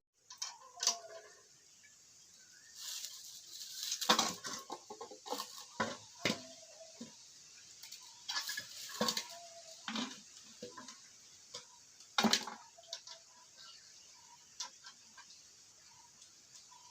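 Dishes or pots being handled: irregular clatters and knocks, the loudest about four seconds and twelve seconds in.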